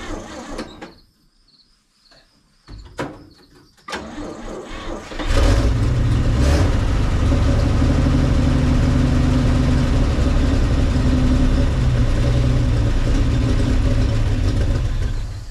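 Chevy straight-six truck engine: its sound drops away about a second in. From about five seconds in it runs loud and steady, then stops shortly before the end.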